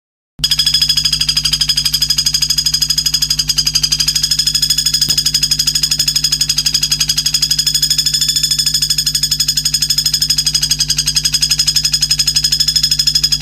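A high, rapid trill of evenly repeated pulses, about ten a second, held steady and starting and stopping abruptly, over a low steady hum.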